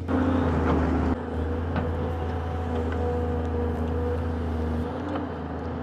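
Hydraulic excavator's diesel engine running steadily under load during combined boom and arm movements, with a steady low hum; the sound drops slightly about a second in. The machine has slow hydraulics and bogs under combined moves, putting out a little smoke.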